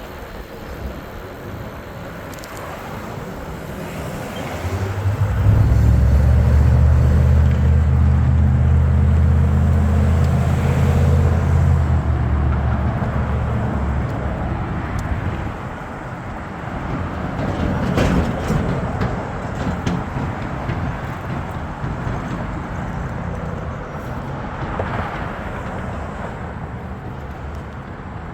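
Road traffic: a motor vehicle's engine hums low and loud close by for several seconds, starting about five seconds in and fading away, over steady outdoor road noise. A single sharp click about eighteen seconds in.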